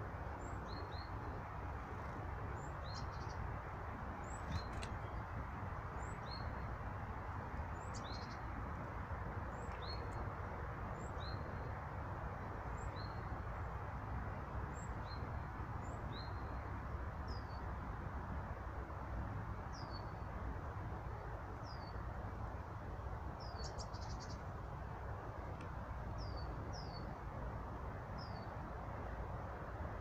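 Small birds calling: short, high chirps repeated about once a second, turning to short falling notes about halfway through, with a few faint clicks. A steady low rushing noise runs underneath.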